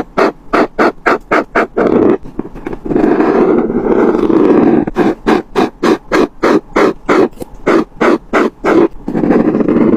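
Colouring on paper with rapid back-and-forth scribbling strokes, about four to five a second, with two longer continuous scratchy strokes, one about three seconds in and one near the end.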